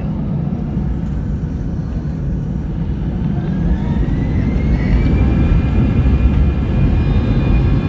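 Airbus A319 jet engines spooling up: a steady low rumble, joined about three seconds in by a whine that rises and then holds steady as the engines get louder, the thrust coming up for takeoff.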